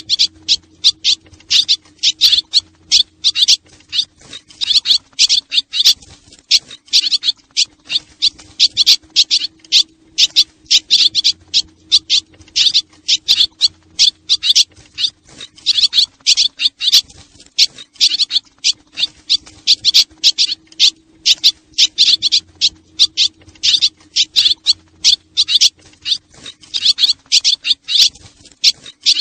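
A flock of swallows twittering: dense, rapid high chirps, many a second without a break, as played to lure swallows. A faint steady low hum runs beneath.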